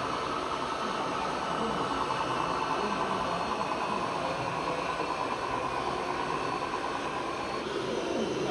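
Radio-controlled scale model vehicle running, a steady mechanical drone.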